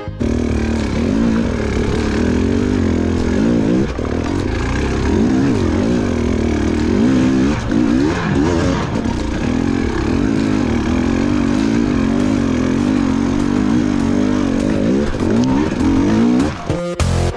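KTM enduro dirt bike's engine being ridden over rough trail, its pitch rising and falling over and over as the throttle is opened and closed.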